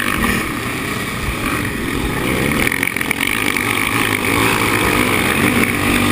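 Sidecar motocross outfits racing, their engines running loud and continuous with revs rising and falling.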